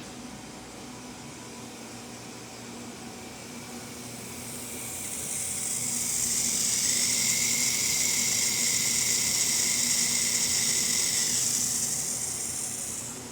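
Air hissing through a vacuum leak on an HDi diesel's vacuum system, swelling up about four seconds in, holding loud for several seconds with a faint whistle in it, then fading away near the end. A low steady hum runs beneath.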